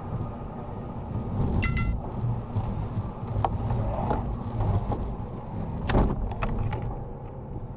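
Steady vehicle and road rumble, with a brief tone about two seconds in and several sharp clicks and knocks, the loudest about six seconds in.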